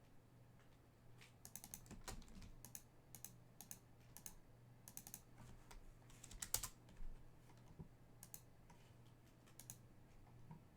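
Faint typing on a computer keyboard, in irregular runs of keystrokes, over a low steady hum.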